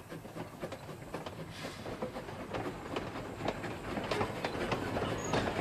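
Narrow-gauge train running along the track, its wheels clicking and clattering over the rails and growing steadily louder as it approaches.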